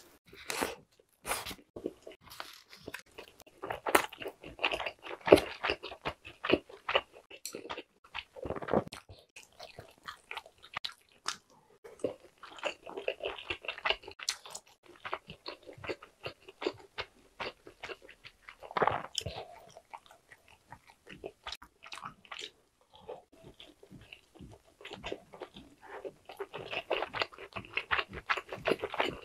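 Close-miked biting and chewing of a pepperoni pizza slice with a thick, crisp pan crust: wet chewing with crackling crunches, coming in several bouts of bites and chews.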